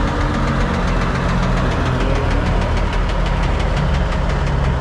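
Diesel truck engine idling with a fast, even clatter.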